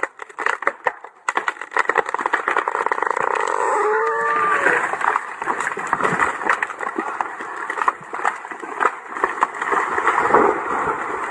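Chainsaw-felled tree coming down: a dense run of cracking and snapping wood and branches, with a short wavering creak about four seconds in.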